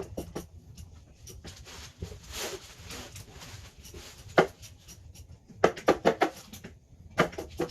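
A few sharp knocks and clinks, several in quick succession about six seconds in, with a stretch of rustling before them.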